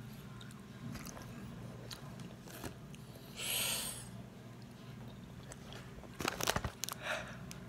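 Close-miked chewing and mouth sounds of a person eating noodles. About three and a half seconds in there is a short hiss. A little after six seconds comes a cluster of loud clicks and knocks as a hand handles the phone that is filming.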